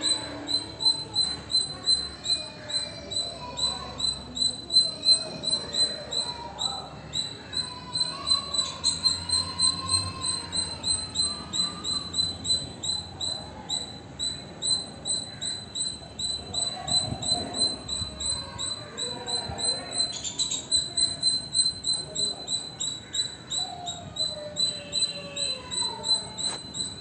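A bird calling, repeating a short, high, sharp note about three times a second without a break. Fainter, lower gliding calls come and go behind it.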